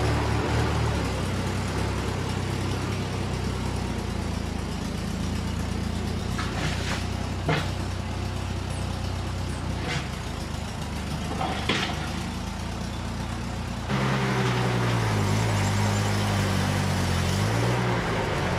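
David Brown 30 tractor engine running steadily, with a few sharp knocks in the middle. About fourteen seconds in it suddenly gets louder and the engine note rises and wavers, as when working under load.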